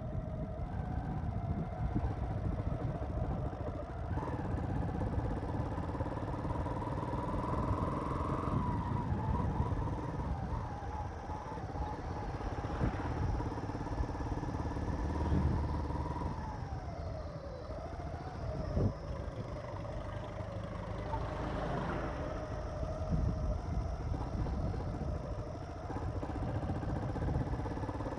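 Motorcycle engine running on the move, its pitch rising and falling with the throttle, over a steady rumble of wind and road noise.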